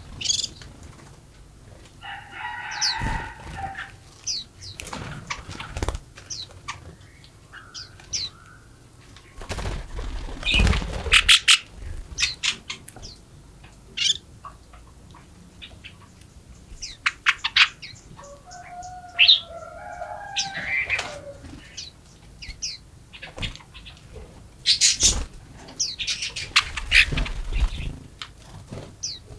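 Small forest birds chirping and calling in short high notes. Two harsher, lower calls come in early and again about two-thirds of the way through, and two louder bursts of rapid clicking fall near the middle and near the end.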